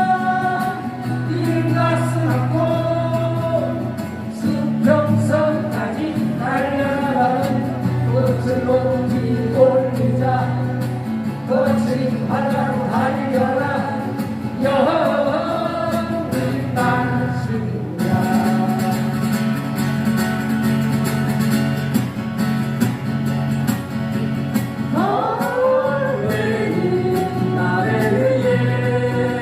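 A live song: a singer's voice carrying the melody over strummed acoustic guitar and sustained low backing notes. The music runs on without a pause apart from a brief break partway through.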